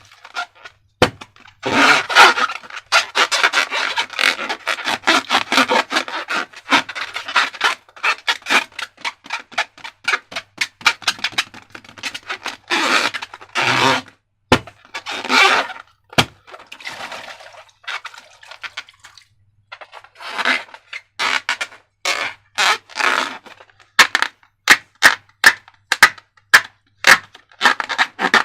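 Hands working slime and balloons: sticky crackling, scraping and squishing, with pauses, then a run of sharp clicks near the end.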